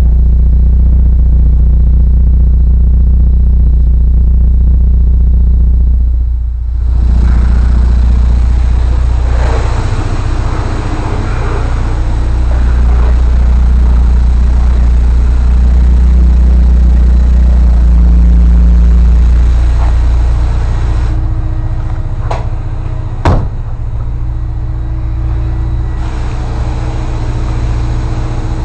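Alfa Romeo Spider's engine running, a loud steady low hum. It dips briefly about six seconds in. A single sharp click comes a little over twenty seconds in.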